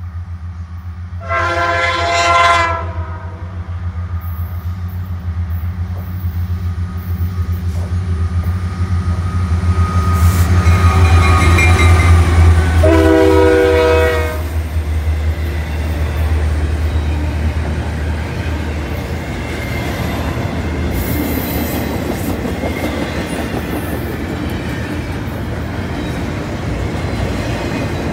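Freight train's diesel locomotives approaching and passing, sounding two horn blasts, one about a second and a half in and a lower one about 13 seconds in as the engines go by. Engine sound is loudest as the locomotives pass, then double-stack container cars roll by with steady wheel noise and clickety-clack.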